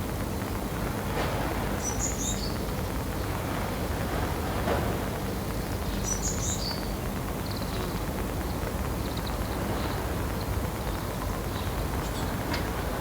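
A sparrow giving short, high chirps, in two brief clusters a few seconds apart, with a few fainter ticks later on. A steady low background rumble is present throughout and is the loudest sound.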